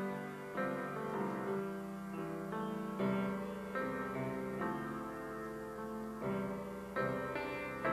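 Solo piano playing slow music, chords struck every second or so and left to ring.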